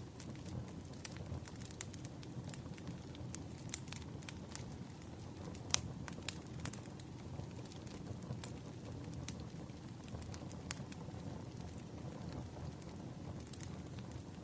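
Burning firewood crackling: irregular sharp pops and snaps over a low, steady rumble.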